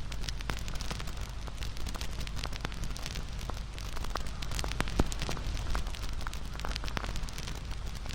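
Wood campfire burning and crackling, with irregular sharp pops over a steady hiss of flames; one louder pop about five seconds in.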